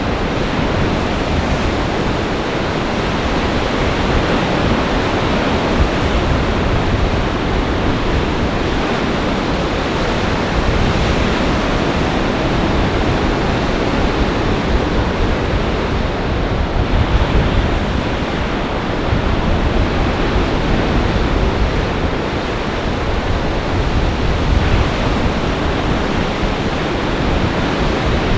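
Lake Michigan storm surf and gale-force wind: a loud, steady rush of breaking waves, with wind buffeting the microphone low down and swelling now and then.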